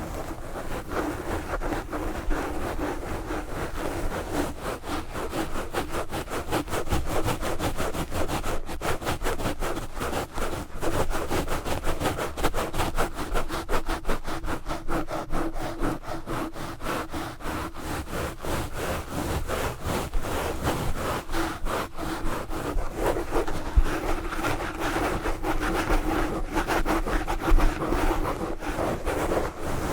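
Fast, aggressive scratching and rubbing on a microphone with knitted wool gloves: a continuous dense run of many rough strokes a second, with heavy low rumble from the handling.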